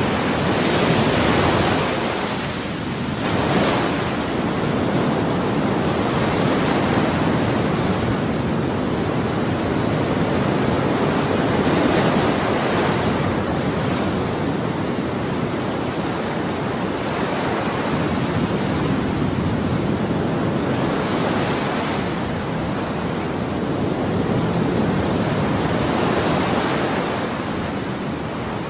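Ocean waves breaking and washing on a shore, a continuous rush of surf that swells with each breaking wave every few seconds.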